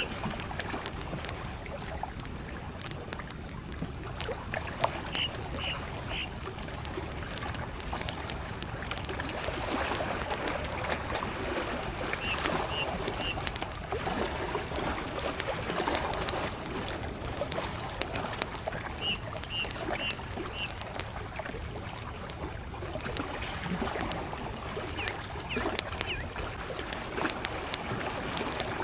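Campfire crackling beside small waves lapping at a lake shore, while a bird repeats a short three-note call about every seven seconds.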